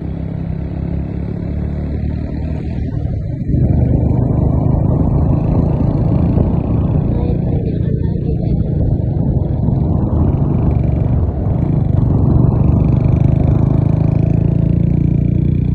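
Vehicle engine running while driving, with a steady hum. It gets clearly louder about three and a half seconds in, then swells and eases as the revs rise and fall.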